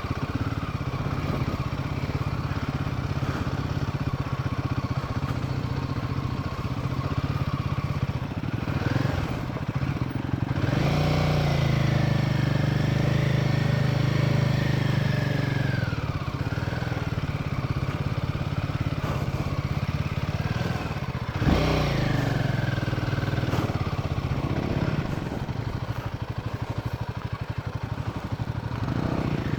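Royal Enfield Himalayan single-cylinder motorcycle engine running under load as it is ridden slowly through loose sand, the revs rising and falling as the rider works the throttle. A single knock comes about two-thirds of the way through.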